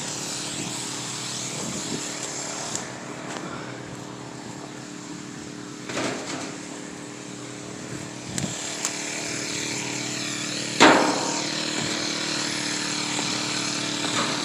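A small engine running steadily at an even speed, with a knock about six seconds in and a louder, sharper knock near eleven seconds.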